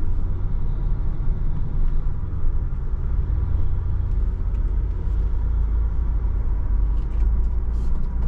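Off-road vehicle driving slowly up a rough dirt trail: a steady low engine drone, with a few light clicks near the end.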